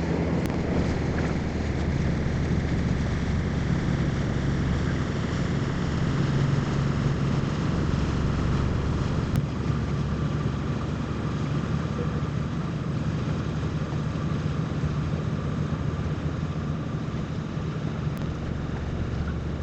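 Boat engine running steadily, a low drone with wind noise on the microphone.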